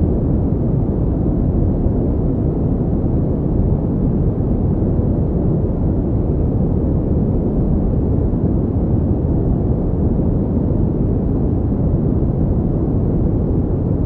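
Pink noise: a steady, unchanging rushing hiss weighted toward the low end, with no breaks or events.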